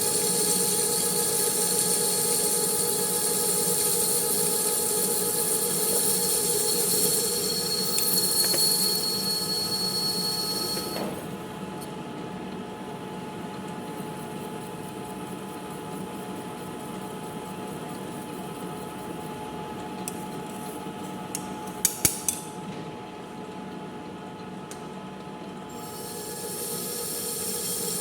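Manual metal lathe running with a steady hum while the cutting tool works the steel workpiece, making a hissy high-pitched cutting noise with a thin whine. The cutting noise stops about eleven seconds in while the lathe keeps turning. A quick few sharp clicks come about two-thirds of the way through, and the cutting starts again near the end.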